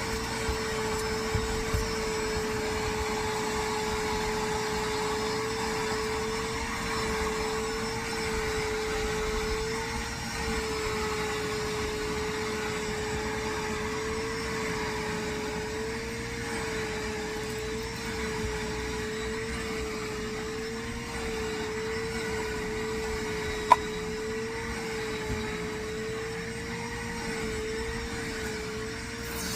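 Vacuum cleaner running steadily while being used on a car's floor mat, its motor holding one tone that wavers slightly in pitch. A single sharp click comes about three quarters of the way through.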